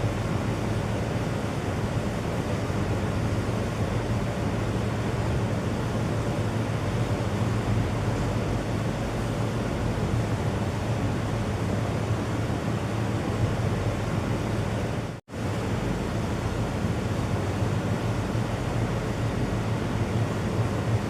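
Steady rushing noise, like wind or surf, that drops out briefly about fifteen seconds in.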